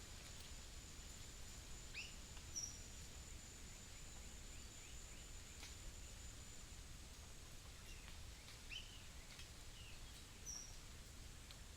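Faint wild soundscape: short, scattered rising bird chirps over a steady high insect whine that stops about seven seconds in, with low background rumble.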